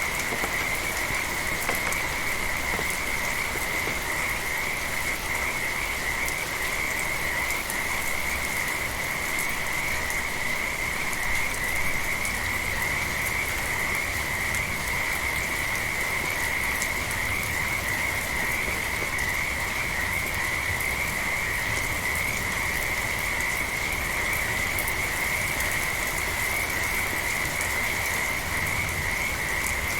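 A dense chorus of frogs calling without pause, merging into one steady high-pitched trill, over the even hiss of light rain.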